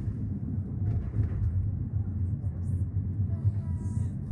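Steady low rumble of the Cairngorm Mountain Railway's funicular carriage running on its track.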